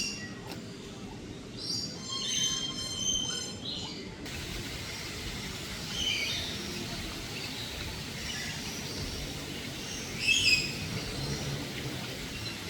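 Birds calling: a few short, high calls over a steady low background noise, with a run of calls about two to four seconds in and the loudest call about ten seconds in.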